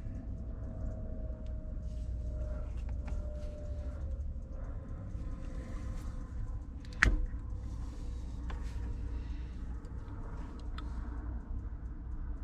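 Light clicks and knocks of hand work on a car, over a steady low rumble, with one sharp knock about seven seconds in.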